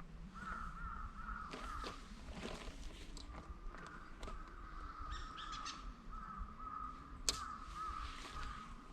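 Crows cawing over and over, with scattered small clicks and rustles and one sharp click about seven seconds in.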